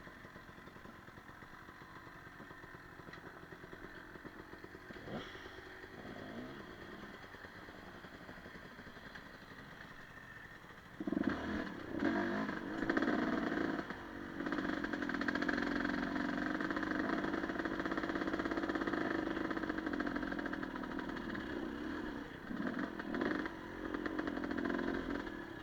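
Enduro motorcycle engine, low and steady at first, then about eleven seconds in it revs in a few quick blips and runs on steadily under throttle, with a few more blips near the end before easing off.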